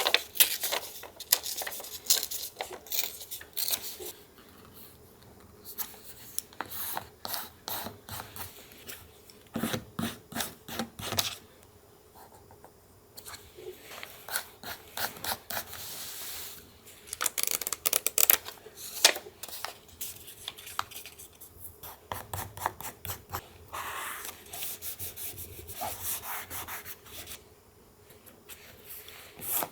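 Paper being rubbed, smoothed and handled during junk-journal collage work: irregular bursts of rustling strokes and quick clicks, with short quieter pauses.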